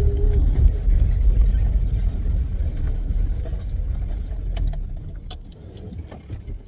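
Safari vehicle driving along a forest track: a low engine and road rumble that fades away over the last couple of seconds, with a few light knocks.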